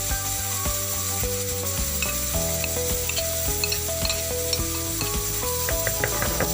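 Spoon stirring a sizzling harira base of grated tomato, herbs and celery in a cooking pot, with light clicks of the spoon against the pot.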